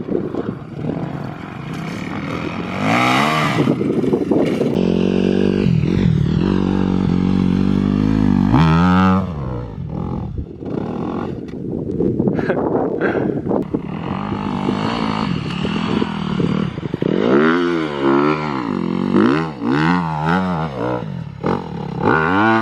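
Dirt bike engine being ridden hard, revving up and down, with a long steady high-rev stretch in the middle and several quick rev rises and drops near the end.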